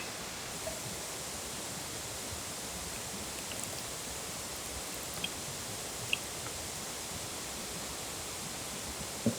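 Steady, even rushing hiss with a few faint short clicks scattered through it.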